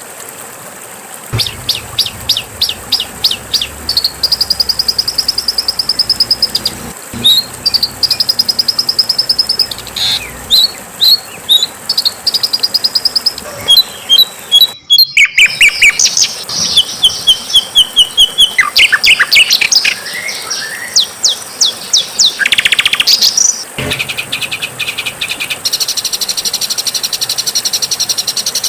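Songbird song: rapid series of sharp, high chirps and trills, phrase after phrase, with a brief dropout about halfway through.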